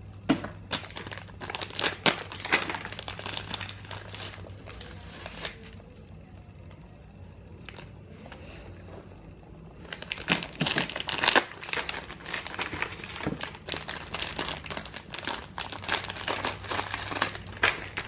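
Plastic snack wrappers crinkling and tearing as small packets are ripped open and handled, in two spells with a quieter stretch of a few seconds in the middle.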